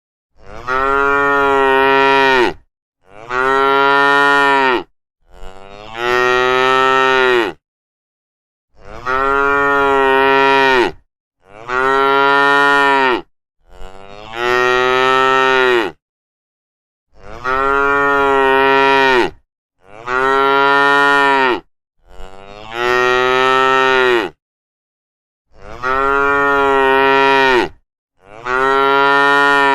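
Cow mooing: long moos of about two seconds each, in sets of three separated by short pauses, the same set repeating over and over.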